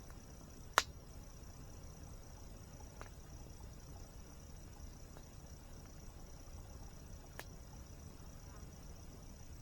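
Campfire crackling: a sharp pop about a second in, a fainter one near three seconds and another sharp pop near the end, over a steady high-pitched insect drone and a low rumble of falling water.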